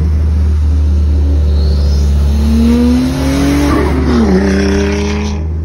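Loud car engine revving; its pitch climbs through the middle and then drops away.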